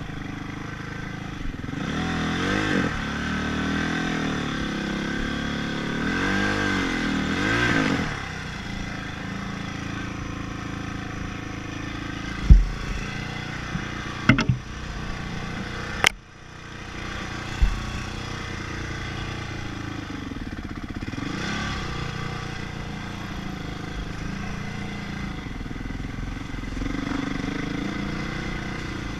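Motocross dirt bike engine revving up and down several times in quick succession, then running more steadily. A few sharp knocks come around the middle, and the revs rise and fall again later.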